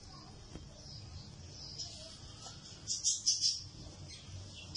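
Birds chirping in the background, with a short cluster of high chirps about three seconds in and another near the end.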